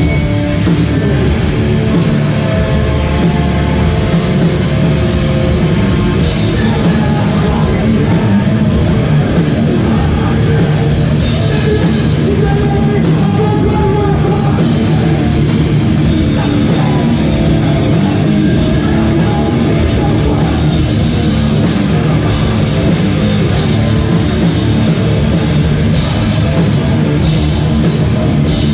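Hardcore band playing live and loud: electric guitars and drums in a full-volume song.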